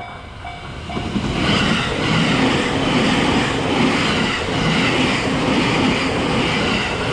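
Train passing close by. Its noise builds about a second in and then stays loud and steady.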